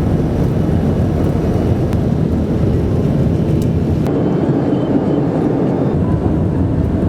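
Loud, steady rumble of a vehicle in motion, an even noise with no breaks.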